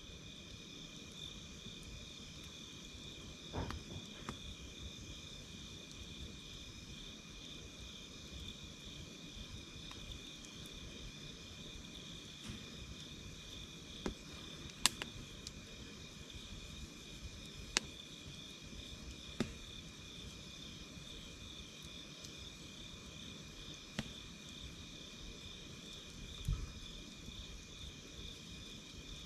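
Steady chorus of crickets and other insects trilling, with a wood campfire giving a few sharp isolated pops and crackles now and then.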